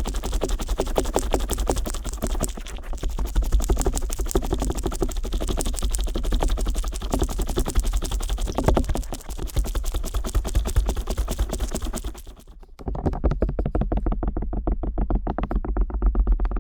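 Stainless-steel earpick scratching and tapping rapidly on the rubber ear of a binaural microphone, a dense stream of close, crisp clicks and scrapes. About three-quarters of the way through it stops briefly, then carries on sounding duller.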